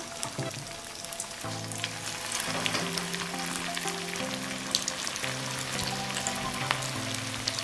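Breadcrumb-coated sweet corn cutlets sizzling in hot oil in a frying pan, a steady crackle with many small pops. Soft background music of held notes comes in about a second and a half in.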